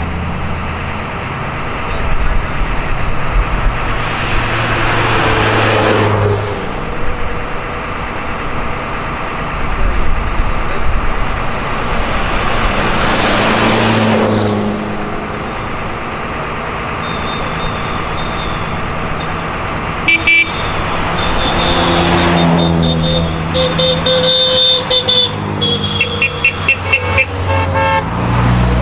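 Vintage race cars passing one after another, their engines swelling up and fading as each goes by, with a horn tooting repeatedly near the end.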